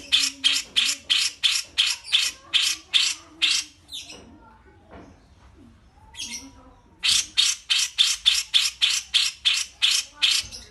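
Captive songbird, cucak jenggot or kapas tembak, giving a rapid series of sharp, repeated call notes at about four a second. It breaks off for about three seconds, with one short note in the gap, then takes up the series again.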